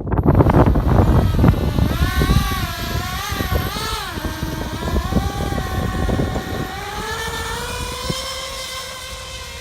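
Twin 64 mm electric ducted fans of a model SR-71 jet whining, their pitch wavering up and down with the throttle, then rising and holding steady while the sound slowly grows fainter. Wind buffets the microphone in the first second or two.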